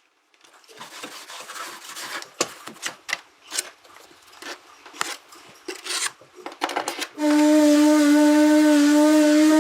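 Irregular scraping and rubbing strokes with scattered sharp clicks, like hand work on a part. About seven seconds in, a power tool starts and runs with a steady whine.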